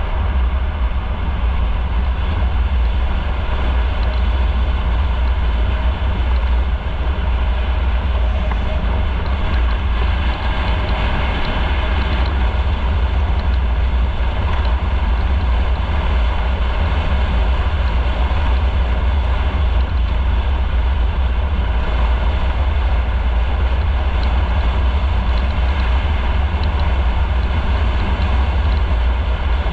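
Motorcycle being ridden at a steady pace: engine drone under wind and road rush, heaviest in a deep, unbroken rumble.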